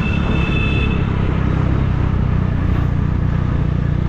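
Triumph Speed Triple 1050's three-cylinder engine running steadily through an SC Project exhaust, with a low even rumble under a rushing hiss.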